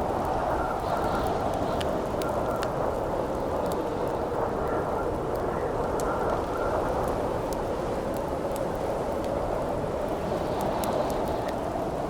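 Howling wind as a steady rushing noise, with a campfire crackling through it in scattered sharp pops.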